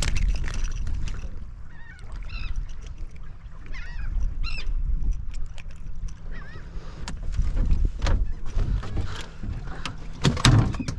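Seabirds feeding over the water give short, squawking calls a few times, over a steady low rumble of wind and water against the boat, with a few sharp clicks.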